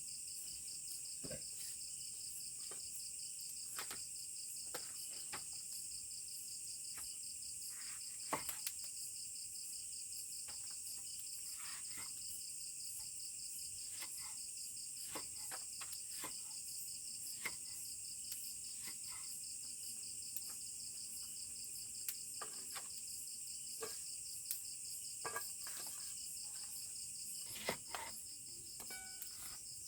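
Steady, high-pitched insect chorus, with scattered short clicks and knocks throughout, a couple of them louder.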